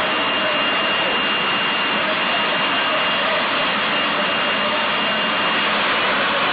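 Jet engines of jet-powered drag racing vehicles running steadily: a loud, even rush with a thin, steady high whine over it.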